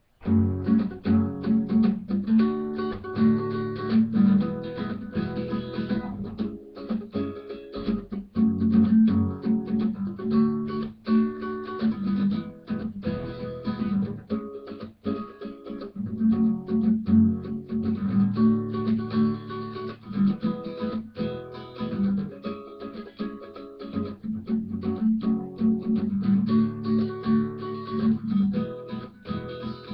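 Acoustic guitar strummed in a steady rhythm, working through a short cycle of chords.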